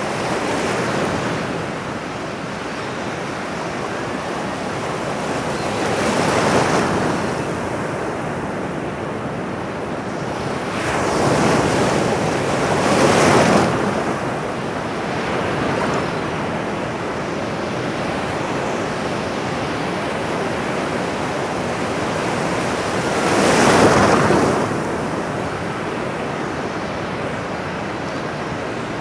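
Ocean waves breaking and washing on a shore, a steady rush of surf that swells with each wave, loudest about 13 and 24 seconds in.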